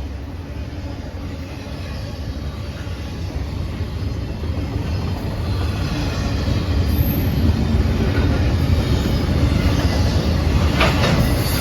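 Intermodal freight train led by a GE ES44AC diesel-electric locomotive, its low engine rumble and rail noise growing steadily louder as it approaches, with a brief sharp clank near the end.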